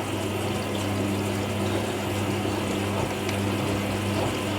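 Hoover NeXtra washing machine filling with water for its second rinse: a steady rush of water through the inlet over a constant low electrical hum.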